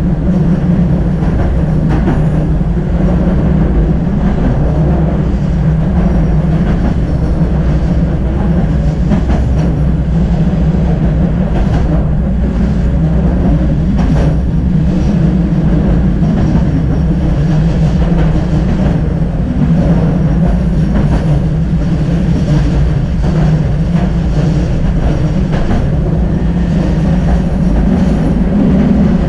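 Tram running along the track: a steady, loud rumble of wheels on rails, with a few sharp clicks over rail joints or points.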